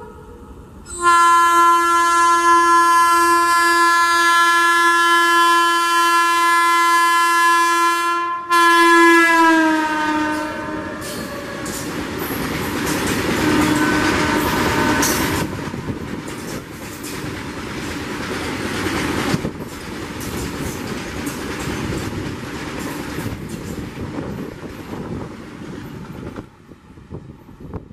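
Alstom WAG-12B electric freight locomotive sounding its horn in one long blast and then a shorter one whose pitch drops as the locomotive passes. BOXN open wagons follow, rolling by with a steady clickety-clack of wheels over the rail joints, and the noise falls away near the end as the brake van goes past.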